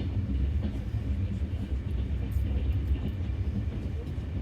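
Passenger train running, a steady low rumble heard from inside an open-plan sleeper carriage.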